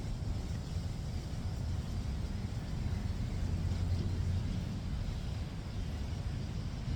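Steady low rumble of city street traffic with a faint hiss above it, swelling slightly midway.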